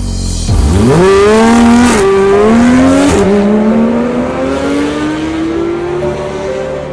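Porsche 991 GT3 flat-six breathing through an Fi Exhaust valvetronic catback and catless downpipe, accelerating hard. The revs climb sharply about half a second in, with quick upshifts about two and three seconds in, then the pitch keeps rising slowly in the higher gear.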